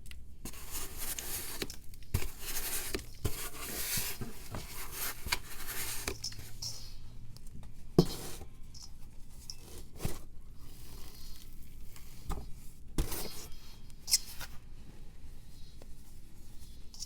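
A pressed powder block being shaved and crumbled, with dry scraping, crunching strokes in the first half. A few sharp cracks come later as pieces snap off.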